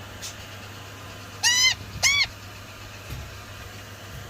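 Indian ringneck parakeet chick giving two short, loud screeching calls about half a second apart, each rising and falling in pitch.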